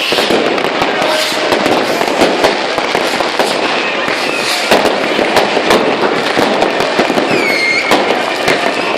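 New Year's Eve fireworks and firecrackers going off densely, one sharp bang after another with no break, and a whistling tone from a rocket about seven seconds in. Voices are heard beneath the bangs.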